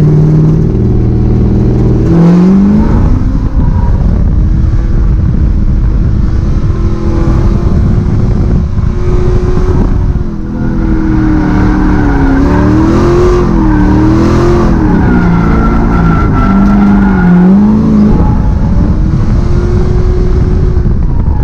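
LS V8 engine of a Nissan S13 drift car running hard under load, its pitch climbing about two seconds in. It dips briefly about halfway through, then repeatedly rises and falls as the throttle is worked through a drift.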